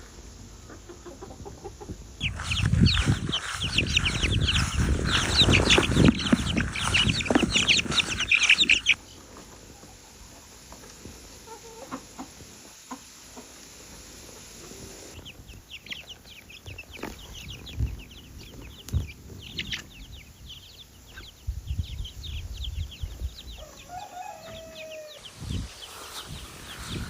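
Chickens clucking and roosters calling, a dense loud flock chorus for about seven seconds after the first two, then quieter scattered calls.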